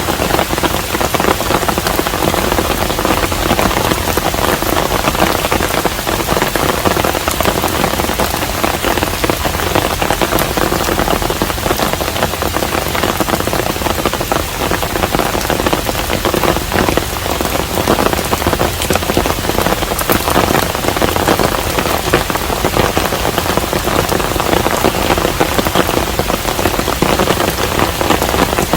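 Steady rain falling on a traditional Korean hanok house: a dense, even hiss of rainfall with countless individual drop ticks, unchanging throughout.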